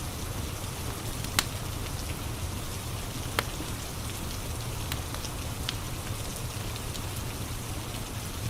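Steady rain with a low rumble under it, and a few sharp pops from a crackling wood fire, the loudest about a second and a half in and again near three and a half seconds.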